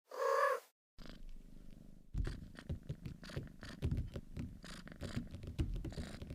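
A cat gives one short meow, then purrs continuously from about a second in.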